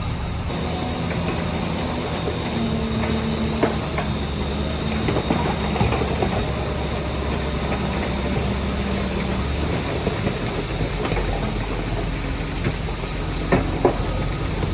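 Heavy diesel engine of earthmoving equipment running steadily, its low hum changing note about ten seconds in, with a steady hiss and a few brief clanks.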